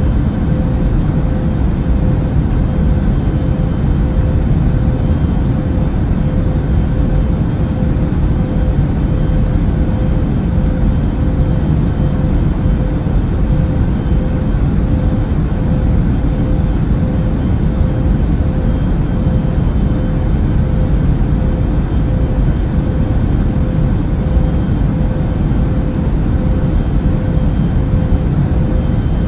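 Airbus A380 cabin noise in cruise flight: a steady, deep rush of engine and airflow noise with a constant hum running through it.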